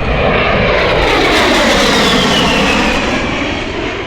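A-10 Thunderbolt II's twin turbofan engines making a jet pass, their whine sliding down in pitch as the aircraft goes by. It is loudest in the middle and fades near the end.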